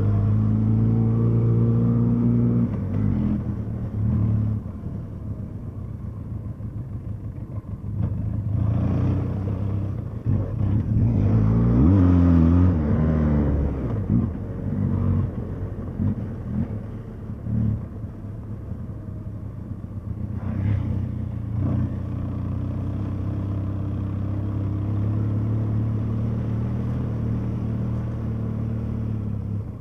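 Benelli TRK 502 X motorcycle's 500 cc parallel-twin engine running steadily on a dirt track, with the revs rising and falling about twelve seconds in, where it is loudest. Occasional short knocks come through from the rough ground.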